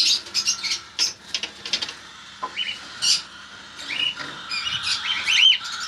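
Caged cockatiels and lovebirds chirping and squeaking: a busy scatter of short, high calls and quick clicks, with a few louder arched calls near the end.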